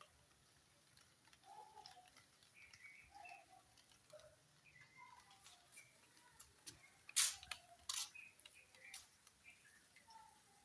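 Faint, scattered bird chirps, with a few sharp clicks or taps; two louder clicks come about two-thirds of the way through.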